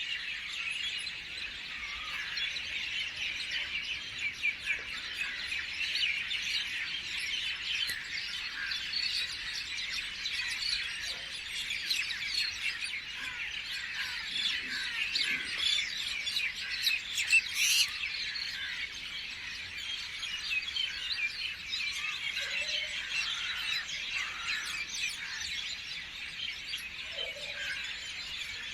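A dense chorus of many small birds chirping and twittering continuously, with a few lower calls near the end and one brief sharp, louder sound a little past the middle.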